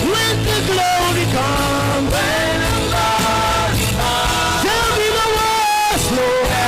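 Church worship music: a voice singing long, gliding held notes over sustained low instrumental tones.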